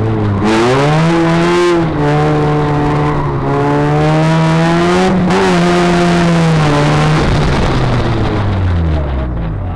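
Toyota 1ZZ 1.8-litre four-cylinder engine of a stripped 2000 Corolla, run hard at high revs on an autocross course. Its pitch rises and falls, with short dips about two seconds in and again about five seconds in. In the last couple of seconds the pitch falls steadily as the car comes off the throttle and slows.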